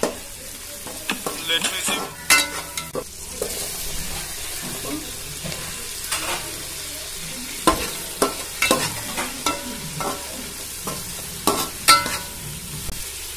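Sliced onions and tomatoes sizzling in hot oil in a metal pan, stirred with a metal spatula that scrapes and knocks against the pan bottom at irregular moments over a steady frying hiss.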